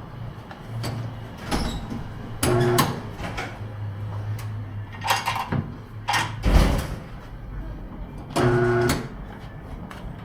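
Tire-shop work noise: a machine running in short loud bursts with a steady low hum between them, among clanks and knocks of metal tools, with one heavy thump about six and a half seconds in.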